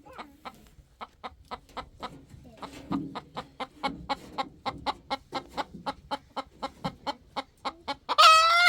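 Chickens clucking in a quick even series of short clucks, about four a second, then a loud, higher, drawn-out squawk near the end.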